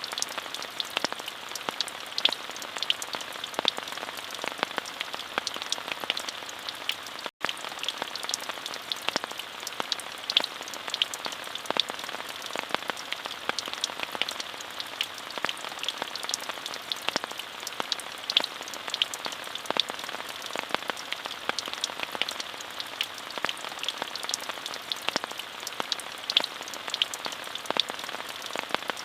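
Steady rainfall: a dense, even hiss made up of many separate drop hits, with a split-second gap about seven seconds in.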